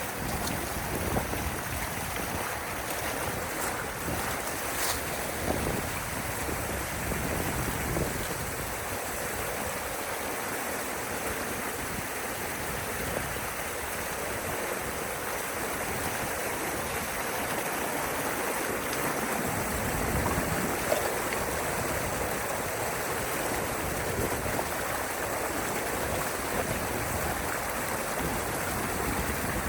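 Water rushing steadily through a drainage canal at a beaver dam that is being broken open, with a few brief knocks.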